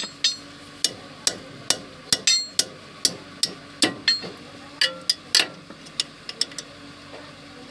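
Hammer blows on metal: a long, uneven run of sharp strikes, about two to three a second, some leaving a brief metallic ring.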